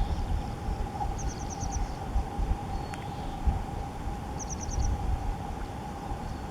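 Outdoor ambience: a low wind rumble on the microphone under a steady faint whine, while a small bird gives a quick run of four or five short high notes twice, about a second in and again after four seconds. A single sharp click sounds about halfway through.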